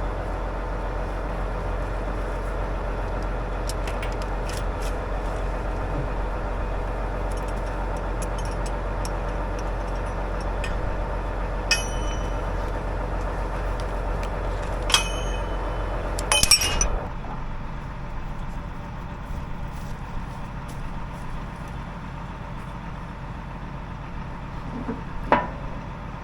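A vehicle engine idling steadily, then shutting off about two-thirds of the way through. Sharp metallic clinks of metal parts and tools being handled, a few of them ringing, come just before the engine stops and once more near the end.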